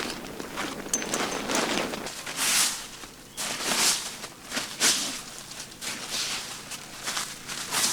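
Irregular rustling and scuffing, a burst about every second, from people moving about on dry ground and handling a tent and its gear.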